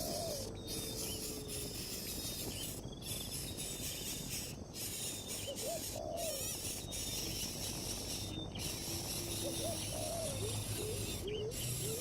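Steady insect buzz with a few short, low, gliding bird calls now and then, and faint higher chirps.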